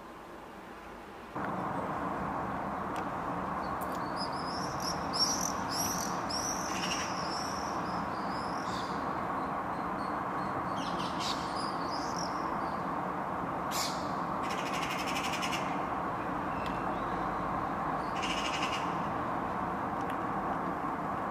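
Birds calling: a run of high, bending chirps, then a few short, harsher calls, over a steady background hiss that comes in about a second in.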